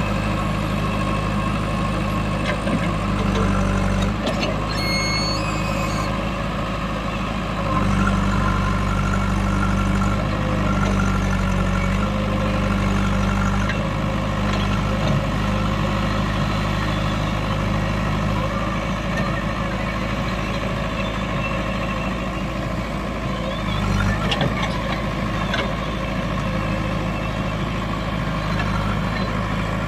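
Heavy diesel machinery engines running steadily, swelling briefly under load a few times, as a backhoe loader and a 4x4 tractor work to free the tractor from deep mud.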